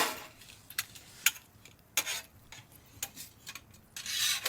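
Irregular light clicks and taps, spaced about half a second to a second apart, with a brief rustling hiss near the end.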